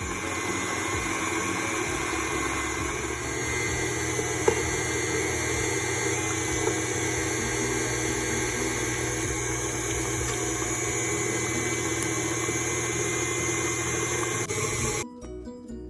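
Electric kitchen appliance running steadily with a low hum and a whirring noise, switching off abruptly near the end.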